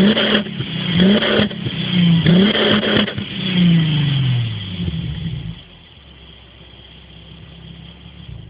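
Mercedes C32 AMG's supercharged 3.2-litre V6 being free-revved through its modified exhaust: about four quick throttle blips roughly a second apart, the last one falling away slowly. About five and a half seconds in, the sound drops much quieter.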